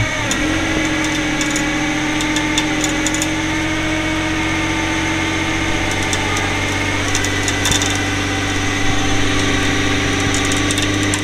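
Vehicle engine running steadily at raised, held revs while under load, as a stuck van is driven and pulled up out of a driveway. The engine note climbs slightly right at the start and then stays level.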